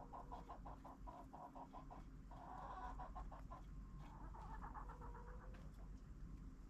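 Chickens clucking quietly: a quick, even run of clucks for the first two seconds, then two longer bursts of clucking about two and four and a half seconds in.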